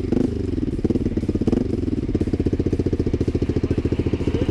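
Motorcycle engine running steadily close to the microphone, with a rapid, even exhaust pulse.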